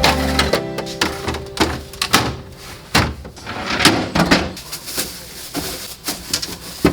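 Irregular clicks and knocks of things handled in a refrigerator: plastic bins, containers and shelves being set down, slid and shut. Background music stops about half a second in.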